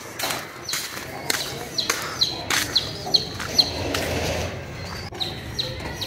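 Caged farm birds chirping in a run of short, high, falling chirps, with scattered sharp knocks.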